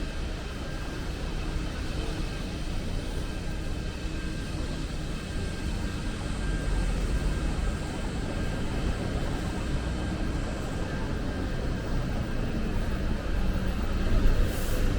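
A steady low mechanical rumble with a few faint, steady whining tones above it, and a short high hiss near the end.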